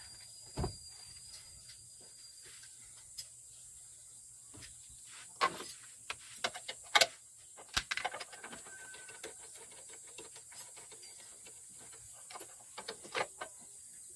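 Scattered clicks and knocks, sharpest a little past the middle and again near the end, over a faint steady hiss.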